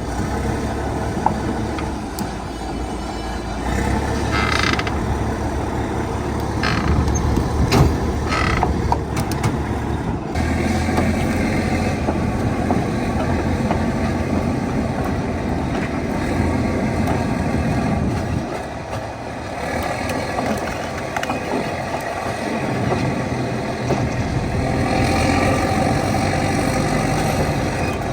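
Caterpillar D9 bulldozer's diesel engine running steadily while dragging a Chieftain tank, with metal creaking from the tracks. A few short high squeals come in the first ten seconds.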